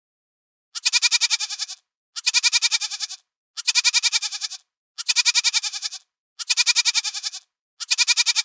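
An animal bleating six times in a row: the same quavering bleat of about a second, repeated at even spacing.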